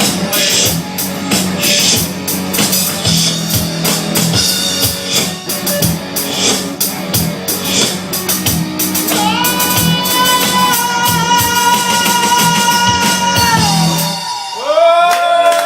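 Rock band playing, with drum kit hits and guitar. About nine seconds in a long high note is held for around five seconds, then the music breaks off briefly near the end.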